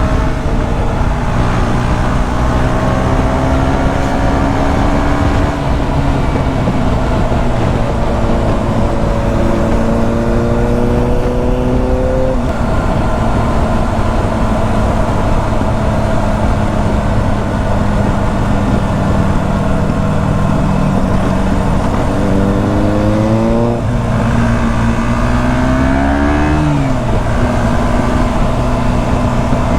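KTM 125 Duke's single-cylinder four-stroke engine under way, its note climbing slowly for about ten seconds and then dropping back at a gear change. It holds steady for a long stretch, rises twice more quickly and falls off sharply near the end, over a constant rush of wind and road noise.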